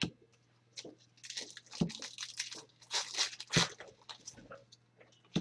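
Plastic foil trading-card pack wrapper being crinkled and torn open in bursts of crackling, with a few light knocks of cards and packaging on the table.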